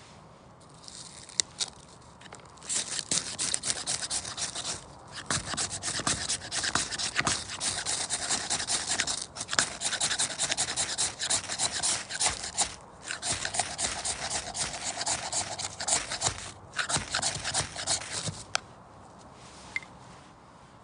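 A knife blade scraping and shaving wood in fast, repeated strokes, in runs of a few seconds broken by short pauses, stopping near the end.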